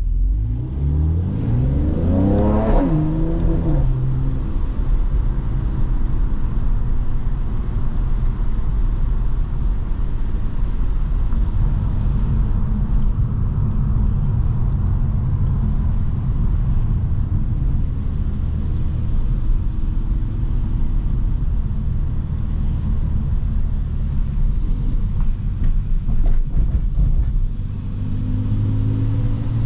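Mercedes-AMG C43's engine and exhaust accelerating, rising in pitch for about three seconds before dropping at an upshift. It then settles into a steady drone at cruising speed and starts rising again near the end as the car accelerates once more.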